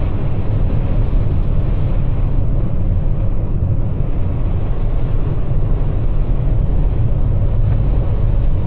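In-cabin road noise of a Toyota RAV4 Prime driving on Blizzak snow tires through snow: a steady low rumble with tyre hiss. The wheels are packed with snow that is throwing them out of balance.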